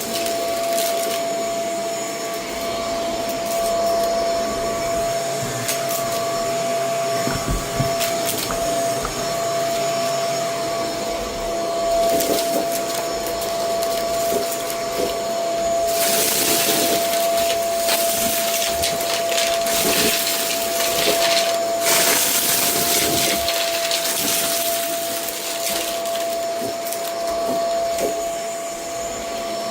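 Vacuum cleaner running with a steady motor whine and hiss; in the second half the hiss comes in louder, brighter stretches.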